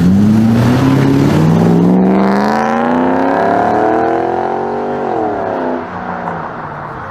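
Car engine accelerating hard, its pitch climbing steadily for about five seconds, then falling away and settling lower near the end.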